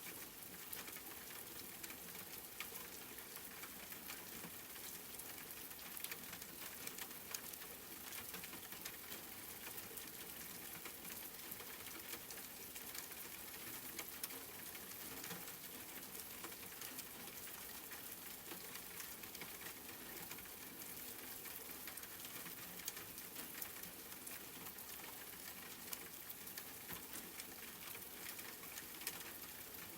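Steady rain: an even hiss of falling rain with many small drop ticks and an occasional louder drop.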